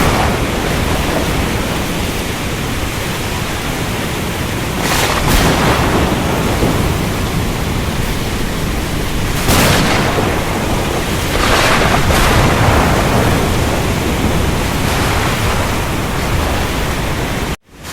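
Thunderstorm: heavy rain and storm noise throughout, with sharp thunder cracks about five and nine and a half seconds in and another rumble around twelve seconds. The sound drops out briefly just before the end.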